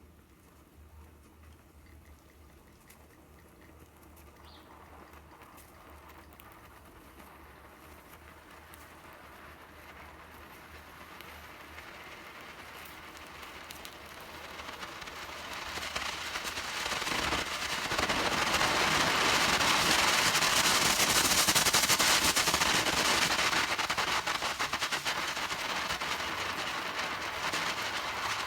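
Home-built hybrid rocket motor with a sugar-PVA-potassium nitrate fuel grain firing on a test stand. The crackling hiss builds slowly from faint to full burn, is loudest for several seconds about two-thirds of the way in, then eases off a little.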